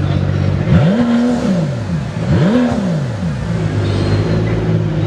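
A car engine idling steadily and blipped twice. Each time the revs jump up sharply, hold briefly, then fall back to idle; the second rev comes about a second and a half after the first.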